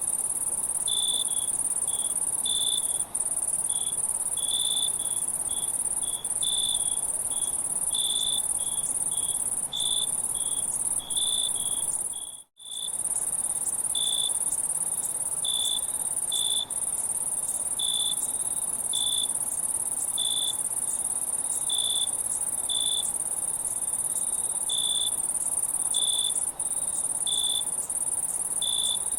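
Insect chorus: a steady high-pitched insect trill with short cricket-like chirps about once or twice a second, at irregular spacing. The sound cuts out for a moment about halfway through.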